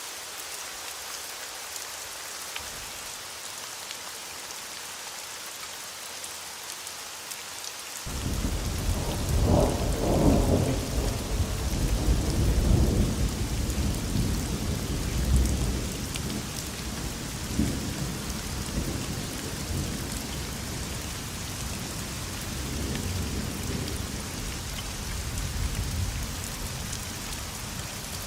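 Steady heavy rain hissing, with thunder breaking in suddenly about eight seconds in and rumbling in deep rolling waves that slowly die away.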